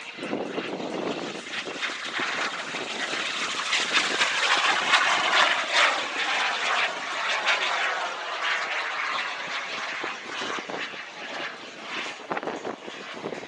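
SubSonex JSX-2 microjet's small turbojet engine passing by in flight. It grows to its loudest about five seconds in, then drops in pitch and fades slightly as the jet moves away.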